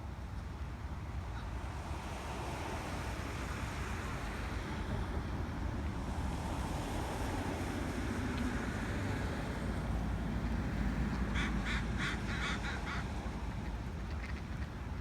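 Ducks quacking: a quick run of about six short calls about three-quarters of the way through, over a steady outdoor rush with a low rumble.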